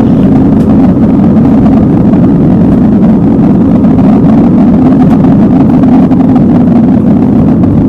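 Steady, loud roar of an Airbus A320neo's CFM LEAP-1A turbofan engines during takeoff, heard inside the passenger cabin.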